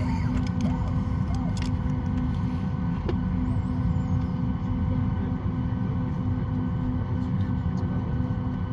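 Steady low rumble and hum inside the cabin of a Boeing 737 MAX 8 on the ground, with several steady tones and a few faint clicks.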